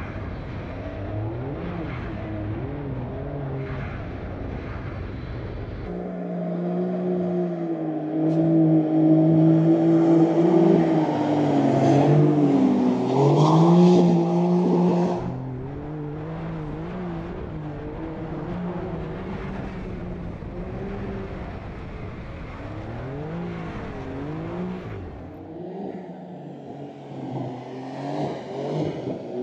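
Porsche 911 Dakar's twin-turbo flat-six engine revving up and down as the car drifts, its pitch rising and falling with the throttle. It is loudest and holds a high steady pitch for several seconds in the middle, then falls back to quicker, lighter revs.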